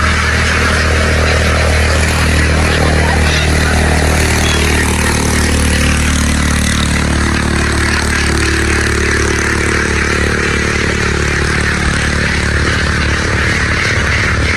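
Boat engine running steadily, its pitch shifting slightly about halfway through.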